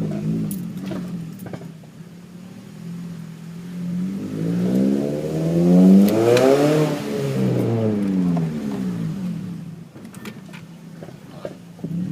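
Scion tC's four-cylinder engine through a new aftermarket exhaust, running steadily, then rising in pitch and getting louder to a peak about halfway through before falling back to a steady drone.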